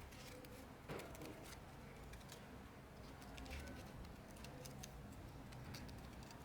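Faint scattered light clicks and taps over a low background hum, with one slightly louder knock about a second in.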